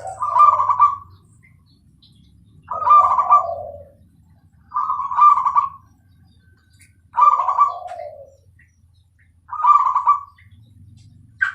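A zebra dove (Bangkok perkutut) singing its rolling cooing song, five phrases of about a second each, spaced roughly two and a half seconds apart.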